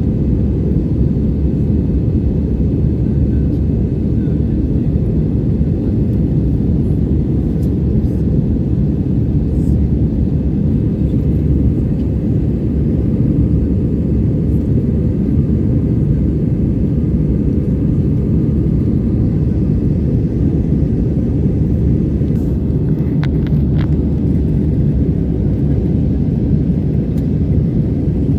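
Steady low rumble of a jet airliner's engines and rushing air, heard inside the passenger cabin in flight. A few faint clicks come near the end.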